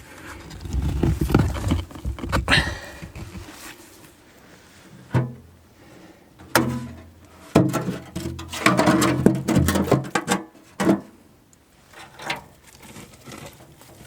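Stones knocking against each other with short scraping and rustling between, as rocks are handled and stacked into a stone oven.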